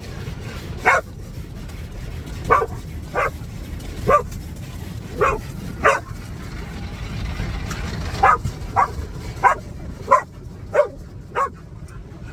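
Dog barking excitedly at the car wash: about a dozen short, sharp barks in two runs with a pause of about two seconds between them, over a steady low rumble.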